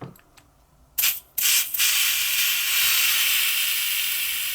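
Butane gas hissing from a refill can pressed into a pipe lighter's filler valve: two short spurts about a second in, then a steady hiss that slowly weakens.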